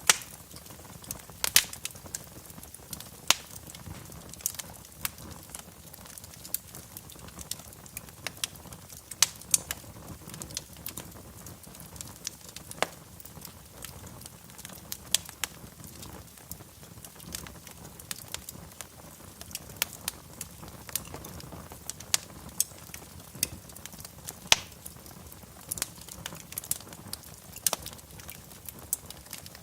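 Wood fire crackling in a fireplace: irregular pops and snaps, a few much louder than the rest, over a soft steady hiss.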